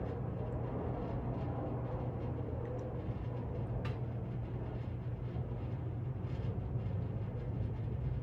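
Hunter Grand Lodge 60-inch ceiling fan with an AirMax motor running steadily on medium speed: a constant motor hum under the rush of air from the blades. A single faint tick about four seconds in.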